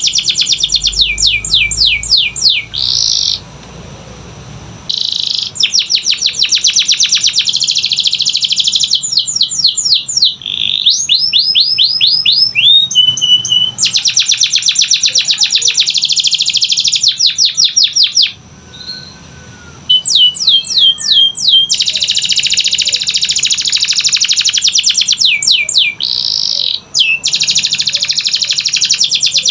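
Canary singing: long fast trills and rolls of rapidly repeated down-sweeping notes, breaking off briefly twice.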